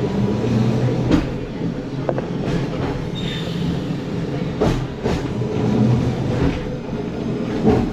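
Antique tram running along its tracks, heard from inside the car: a steady low rumble with a few sharp knocks from the wheels and running gear, and a brief high squeal about three seconds in.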